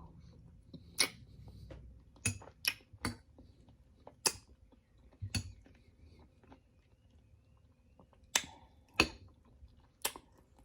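Close-up eating sounds of a person chewing fresh berries in coconut water: a scattered series of short, sharp clicks and smacks, about nine in all, at irregular intervals.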